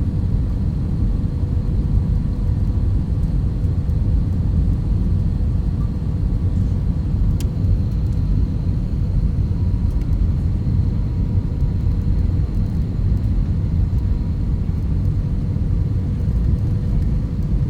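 Steady low rumble of an airliner heard from inside the passenger cabin, with a faint steady hum running through it.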